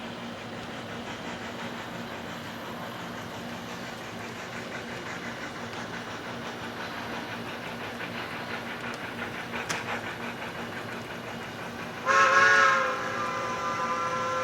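Steam train running steadily, then a steam locomotive whistle blows loud about twelve seconds in and holds through the end.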